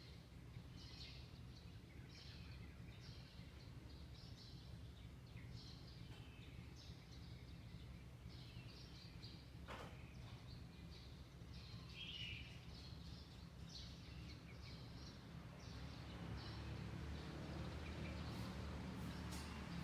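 Small birds chirping over and over in short high calls, about one or two a second, over a faint steady low rumble of neighbourhood background noise. A single sharp click comes about ten seconds in, and a hiss grows louder near the end.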